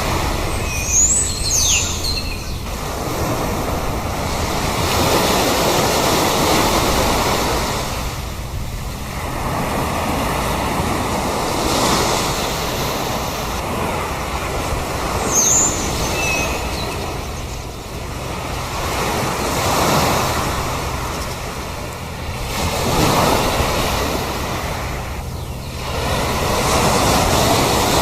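Sea surf, waves breaking and washing in, swelling and easing every few seconds. Short high bird calls come about a second in and again around the middle.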